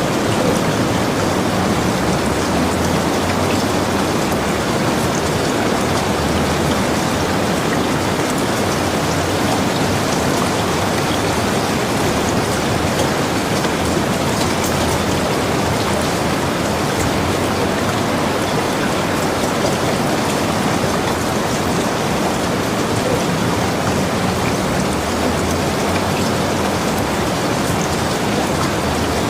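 Steady rainfall: a dense, even hiss with many small drops ticking through it.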